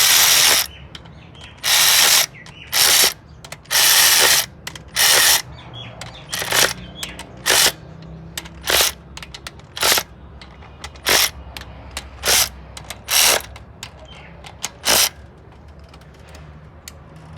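Ratchet wrench being worked in repeated short strokes, about one stroke a second, each stroke a brief burst of clicking. The strokes grow shorter and then stop near the end, over a low steady hum.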